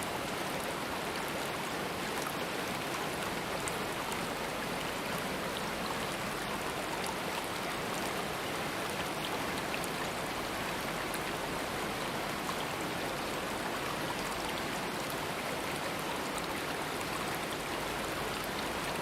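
Running water of a stream or small waterfall, a steady even rushing with faint small splashes.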